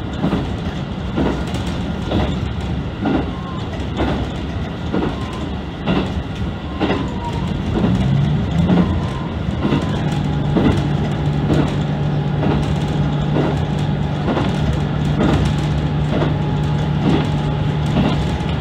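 A diesel multiple unit running at speed on jointed track: a steady rumble with a regular clickety-clack of the wheels over rail joints about once a second. A steady low hum comes in about halfway through and holds.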